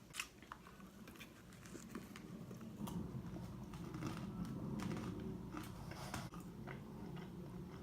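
Close-up chewing and biting of pizza, with sharp wet mouth clicks throughout, growing denser and louder about three seconds in.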